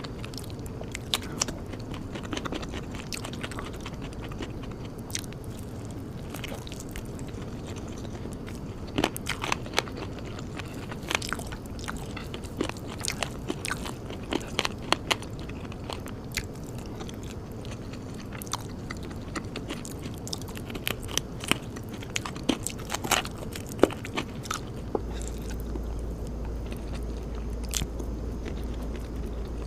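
Close-miked eating: a person biting and chewing food, with many irregular sharp crunches and wet clicks of the mouth. A low hum comes in near the end.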